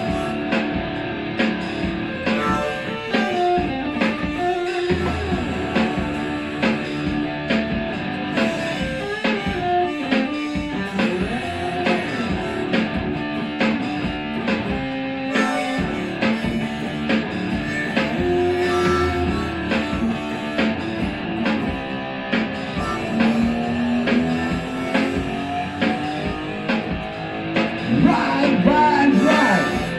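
Live rock band playing an instrumental break: electric guitar soloing with bending notes over a steady drum beat, getting louder near the end.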